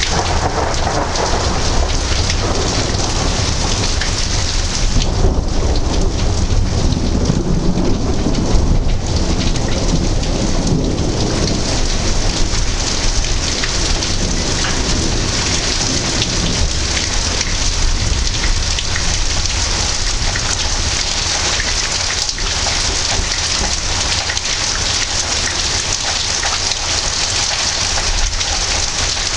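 Heavy thunderstorm rain falling steadily, with a long roll of thunder rumbling through the first third.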